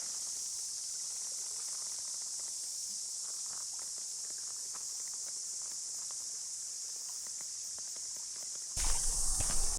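A steady, high-pitched insect chorus, with faint scattered crunches. Near the end a sudden louder rumbling noise comes in.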